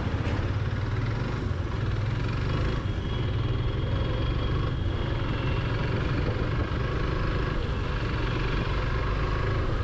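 Motorcycle engine running steadily, a low even hum under a haze of road and air noise.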